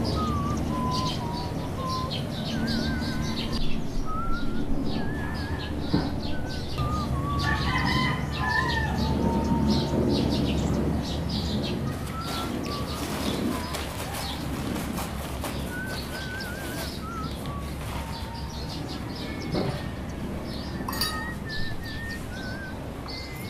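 Songbirds chirping with many short trilled and warbling calls, kept up with only brief gaps, along with a few sharp clicks.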